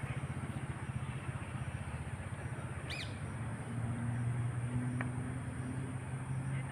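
Steady low rumble of vehicle traffic that swells about four seconds in. A bird gives one short, high, falling chirp about three seconds in.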